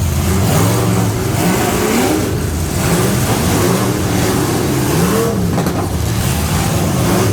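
Half-ton pickup truck engine running hard, its pitch rising and falling again and again as it revs up and eases off.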